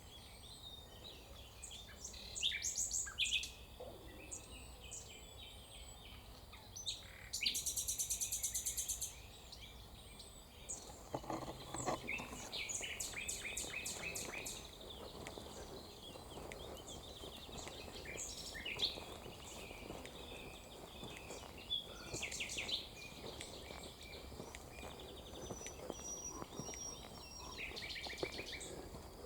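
Several wild songbirds calling and singing over one another, short high chirps and twitters scattered throughout. A dense, rapid high trill comes about eight seconds in, and a run of quick repeated chirps follows a few seconds later.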